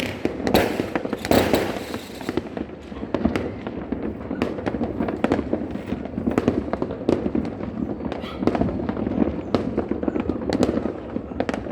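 Fireworks and firecrackers going off all around at once: a dense, continuous crackle of pops and bangs, with the loudest bursts in the first two seconds.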